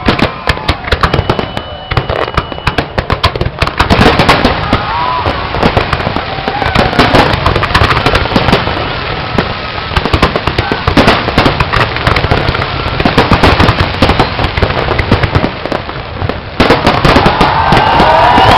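Fireworks display: a dense, continuous barrage of bangs and crackling shells bursting one over another, with voices of onlookers rising near the end.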